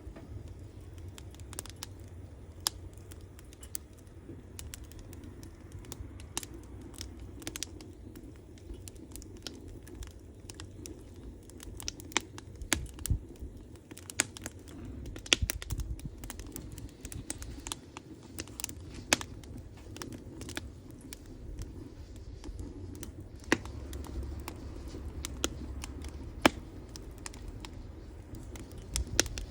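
Wood campfire crackling, with irregular sharp pops of burning wood, a few louder than the rest, over a low steady rumble.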